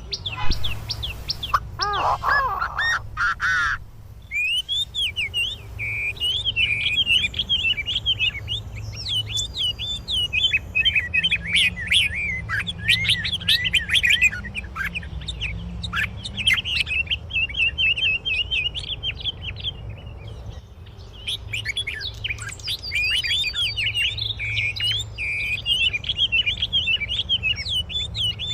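Songbirds chirping and singing in quick, repeated high chirps, in a series of clips cut together, with a sudden change of scene about four seconds in and again about two-thirds of the way through.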